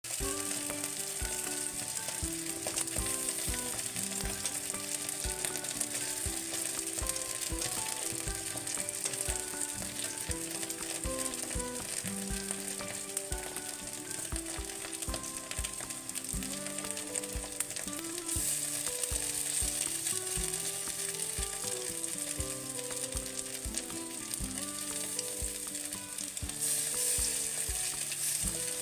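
Potato pieces and spices sizzling in hot oil in an aluminium kadhai, a steady frying hiss as fresh pieces are sliced into the pan.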